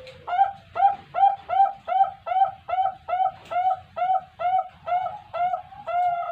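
A puter kung dove cooing in a fast, even run of about fourteen short arched coos, roughly two and a half a second. The last coo near the end is drawn out longer.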